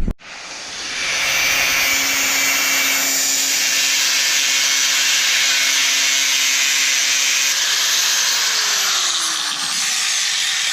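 A click, then a handheld high-speed rotary power tool spins up over about a second and runs steadily for about ten seconds, with a falling whine near the end, as it cuts.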